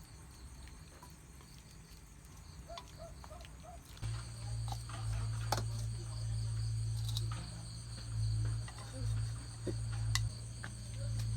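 Insects, crickets by their sound, keeping up a steady high-pitched drone, growing stronger about four seconds in, when a low hum also begins. A few sharp clicks and knocks fall over it.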